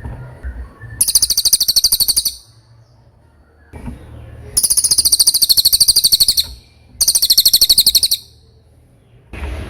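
Cililin songbird singing three loud, very high trills of rapid, evenly repeated notes, about ten a second, each lasting one to two seconds with short pauses between.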